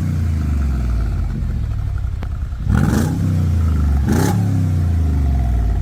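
Mercedes-Benz G55 AMG's supercharged V8 idling with a deep exhaust rumble. It is blipped on the throttle, rising and falling quickly, at the very start, about three seconds in and again just after four seconds.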